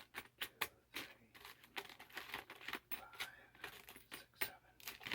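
Dug coins being handled and sorted by hand: a run of quick, irregular light clicks as coins tap against each other and a hard surface, with a soft rustle.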